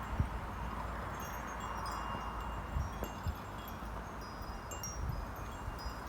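Metal chimes tinkling irregularly, with light wind on the microphone and a few soft low thumps.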